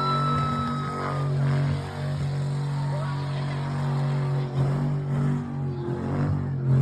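A car engine idling steadily. A high held tone fades out about a second in.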